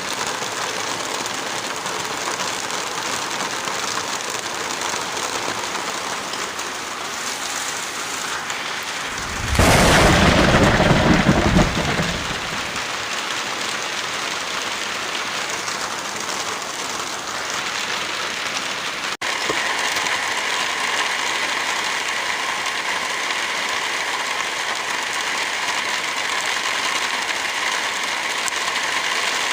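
Heavy rain falling steadily, with one roll of thunder about a third of the way through that lasts about three seconds and is the loudest sound. About two-thirds of the way in there is a sudden cut, and the rain continues with a slightly different sound.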